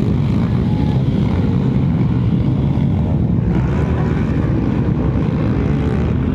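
Motorcycle engine running steadily: a dense, continuous low rumble.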